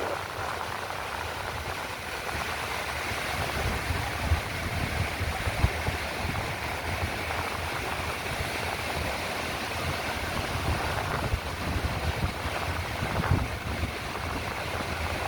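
Strong wind buffeting the microphone in uneven gusts, over the steady wash of ocean surf.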